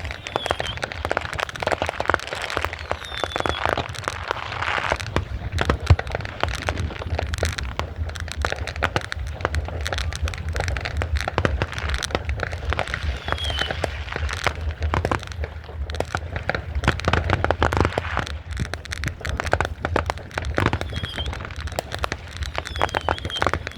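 Fireworks and firecrackers going off continuously: a dense run of sharp cracks and pops with a steady low rumble underneath. A few short falling whistles come through now and then.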